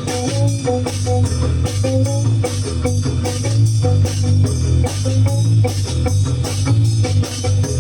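Live rock band of electric guitar, bass and drum kit playing a steady, driving groove, with drum hits several times a second under a heavy bass line.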